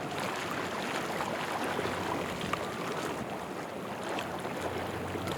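Boat engines running and water washing in a steady noisy wash with a faint low hum underneath.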